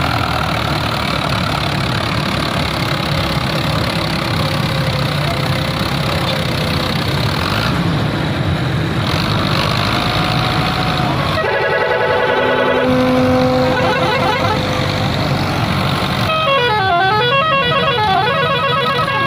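Fiat 640 tractor's diesel engine running hard and steadily. About halfway through, musical horns start: first a rapid warbling horn, then a long held note, then a tune that climbs and falls over and over.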